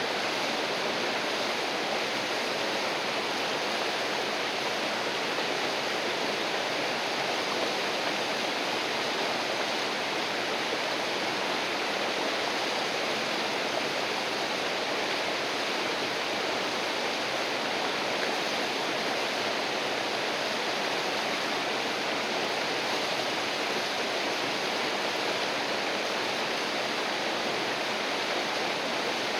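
A river rushing and flowing, steady and unbroken.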